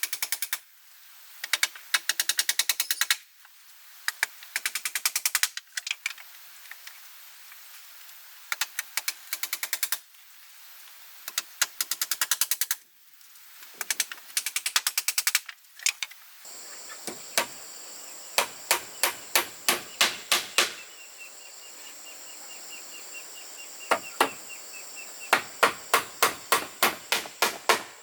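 Hammering, with a hammer striking nails into wood: short runs of rapid taps, then in the second half steadier blows about three a second, pausing briefly around 21 seconds in.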